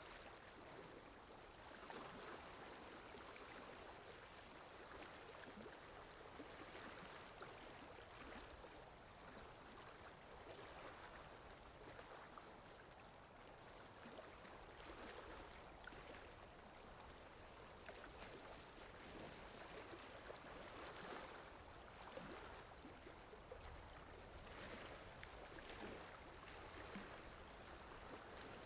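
Faint, steady rainfall: an even hiss of falling water with gentle swells every couple of seconds and scattered small drop ticks.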